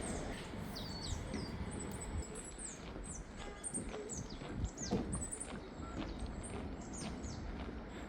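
Small birds calling: many short, high chirps that slide downward in pitch, repeated throughout, over a steady low background rumble.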